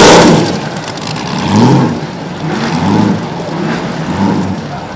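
VK Commodore burnout car's engine revving in a series of short throttle blips, each rising and falling away. The loudest is at the very start, and four or five lesser blips follow about a second apart.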